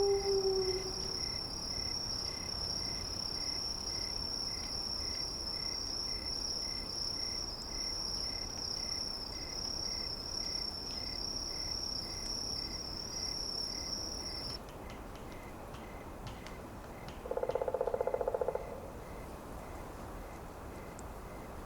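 Forest ambience over a steady hiss of wind. A falling howl, like a wolf's, trails off in the first second. A continuous high insect-like trill with a faint chirp pulsing about twice a second cuts off abruptly about two-thirds of the way in, and a brief raspy buzzing call, the loudest sound, comes near the end.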